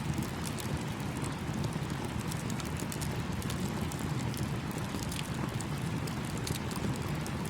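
Campfire crackling with many small sharp pops over the steady rush of a small stream.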